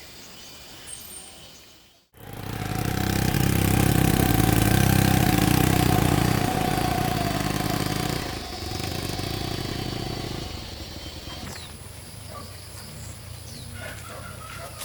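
A small engine running loudly for several seconds, starting suddenly about two seconds in, then dropping lower and fading.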